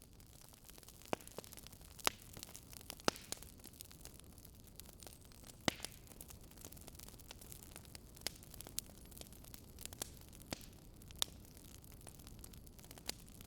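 Wood fire crackling: irregular sharp pops and snaps of burning firewood over a soft steady hiss.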